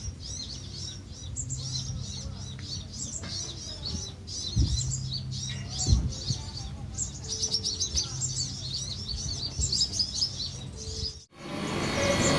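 Several Van Hasselt's sunbirds twittering together in a colony, a dense stream of rapid, high, overlapping chirps, with a couple of short low knocks in the middle. Near the end the chirping cuts off abruptly and a louder, noisier sound begins.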